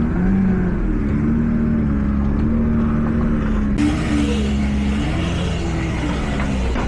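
Tractor engine running steadily, its note shifting a little in pitch.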